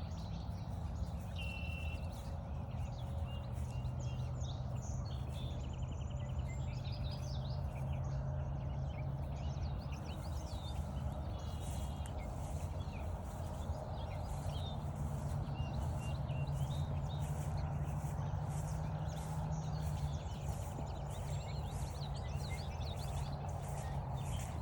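Footsteps on a trail at about two steps a second, with scattered birdsong chirps and a steady low hum underneath.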